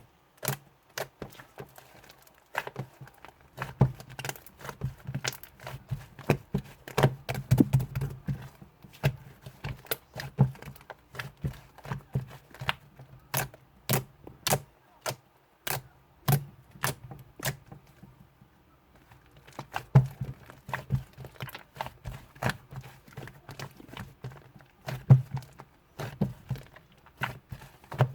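Yellow slime being squeezed and poked by hand, giving irregular sharp clicking pops and squelches, with a short pause about two-thirds of the way through.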